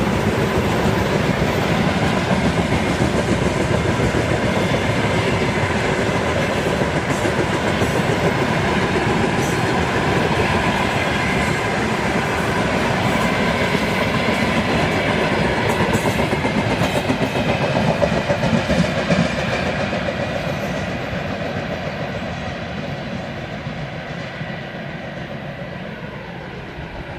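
Freight train wagons rolling past with a steady rumble and the clickety-clack of wheels over rail joints. It fades over the last several seconds as the train moves away.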